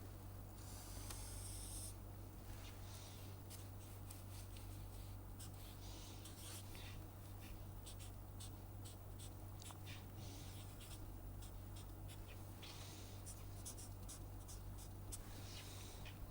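Faint scratching of a pen writing in many short, irregular strokes as a graph is sketched, over a steady low hum.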